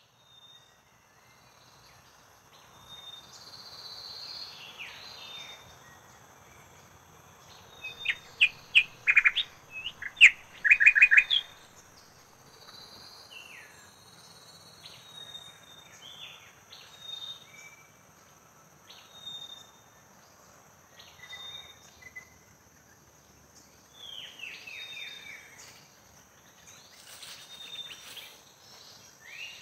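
Birds chirping and calling, with a loud run of quick repeated chirps about eight to eleven seconds in and scattered shorter chirps elsewhere, over a faint steady high-pitched tone.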